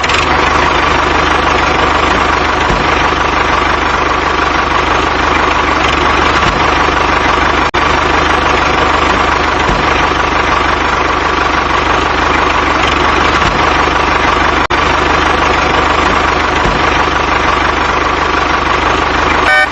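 A steady, unchanging engine-like running sound, broken by two very short dropouts, one a little over a third of the way through and one about three quarters through.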